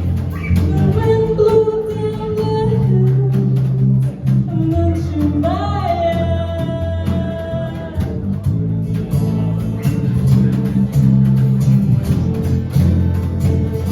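A rock band playing a song live, with sustained bass notes under a steady drum beat and guitar. A sung vocal line comes in twice, near the start and again around the middle.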